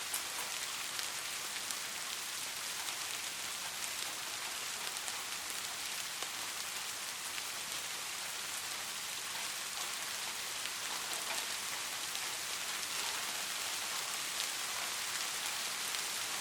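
Steady rain falling, a continuous hiss with the scattered patter of individual drops.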